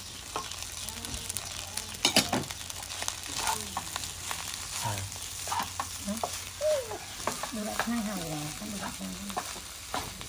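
Fried rice sizzling in a nonstick pan while a wooden spatula stirs, scrapes and taps through it, with a sharp knock about two seconds in.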